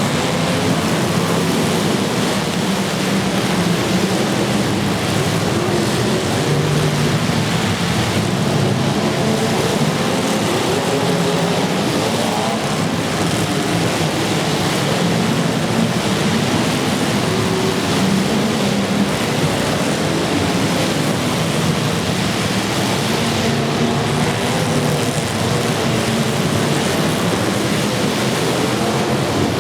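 Several demolition derby cars' engines running loud at once, their pitches rising and falling as they rev, over a dense rushing noise.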